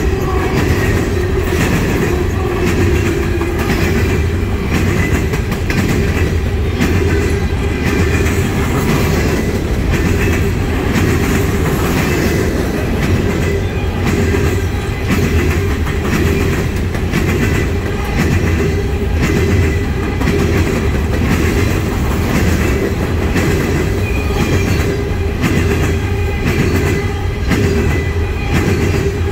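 Steel-wheeled coal cars of a freight train rolling past: a steady rumble of wheels on rail with a rapid, continuous clickety-clack over the track.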